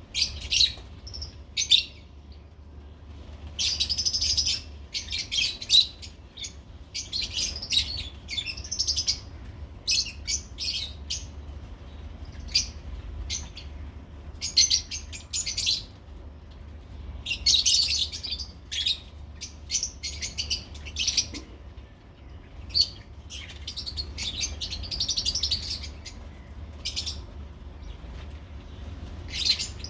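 Lovebirds chirping, with many high-pitched chirps in repeated bursts separated by short gaps, over a steady low hum.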